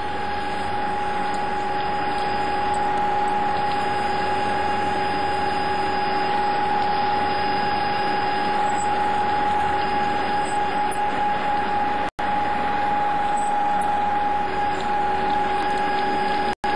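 Capstan lathe running at about 1,260 rpm while drilling with a manual feed: a steady mechanical whine with overtones over a hiss. The sound cuts out for an instant twice near the end.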